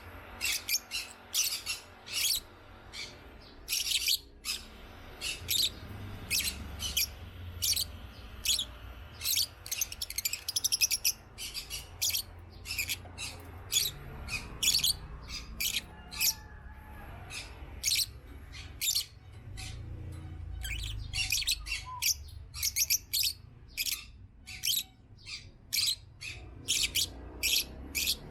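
African lovebirds chirping: many short, high chirps in quick irregular runs with brief pauses, over a low rumble.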